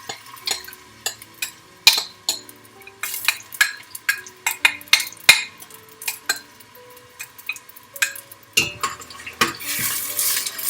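Utensil stirring diced onions frying in olive oil in a pressure cooker pot, with repeated sharp clinks and scrapes against the pot over a faint sizzle. The sizzle and stirring get louder near the end.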